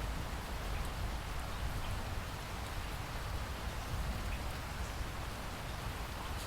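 Steady rainfall in a rainforest: a continuous hiss of rain with a low rumble beneath and faint scattered drop ticks.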